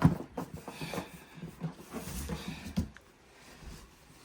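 Wooden beehive parts being handled: a sharp knock as a wooden side board is set down, then a few seconds of lighter clatter and rustling as more pieces are moved.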